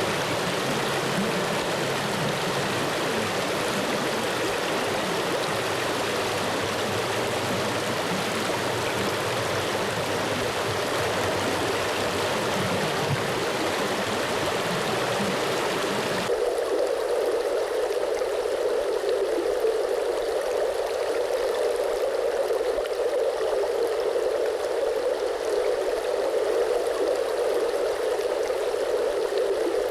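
Flowing water running steadily. About sixteen seconds in, it switches abruptly to a different water sound: the low rumble drops away, leaving a narrower, steady midrange rush.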